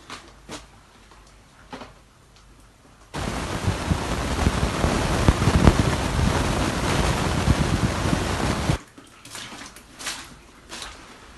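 Water pouring and splashing for about six seconds, starting and stopping abruptly, with scattered small drips and clicks before and after. It is leaking water in a house flooded by a burst sewage main.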